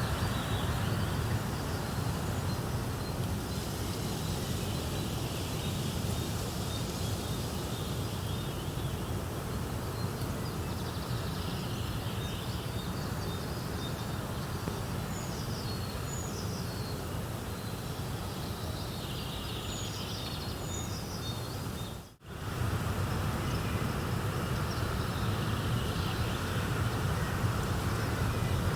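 Steady outdoor nature ambience: an even rushing noise with scattered faint bird chirps over it. The sound cuts out for an instant about three quarters of the way through.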